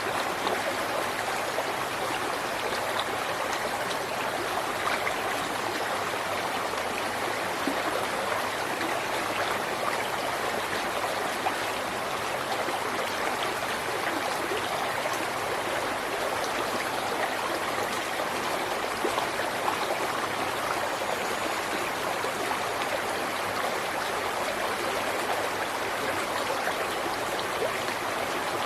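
River water flowing and babbling steadily over rocks, an even rush with small splashes and trickles throughout.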